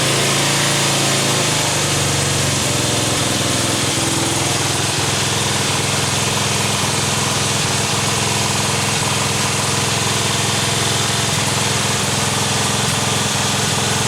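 Craftsman lawn tractor's Briggs & Stratton engine running steadily just after starting, loud and echoing in a closed garage. It settles into an even run after the first couple of seconds.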